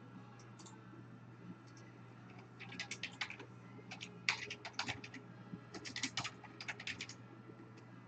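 Typing on a computer keyboard: several quick runs of keystrokes, starting about two and a half seconds in, over a faint steady low hum.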